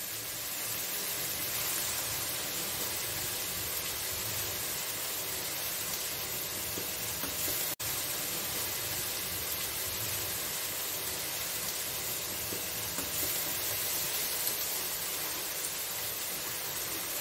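Red amaranth leaves and tomato-onion masala sizzling in a steel kadhai over a gas flame, a steady frying hiss. It cuts out for an instant about eight seconds in.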